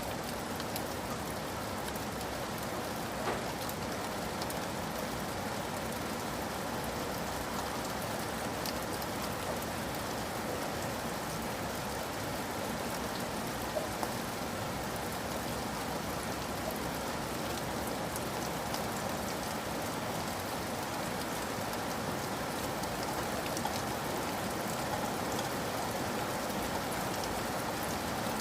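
Steady rain falling, an even hiss of water with scattered drops ticking on a surface.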